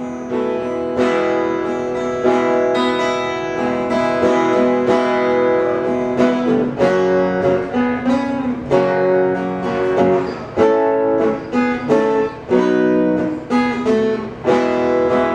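Acoustic guitar playing the song's closing instrumental bars after the last sung line, as a run of picked and strummed chords.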